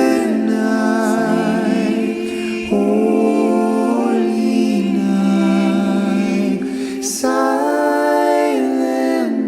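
Background music: singing in long held notes with vibrato, a new phrase starting about three seconds in and again about seven seconds in.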